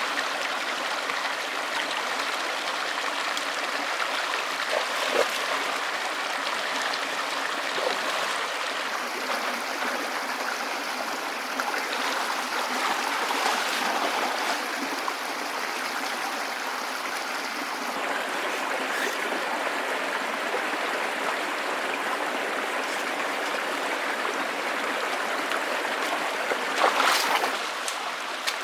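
Stream water running steadily, with a brief louder burst near the end.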